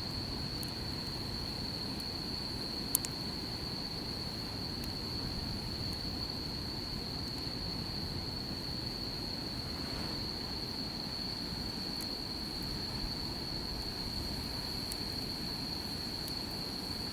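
Campfire burning with scattered sharp crackles, one louder pop about three seconds in, over a low steady rumble. A continuous high-pitched insect trill, typical of crickets, runs underneath.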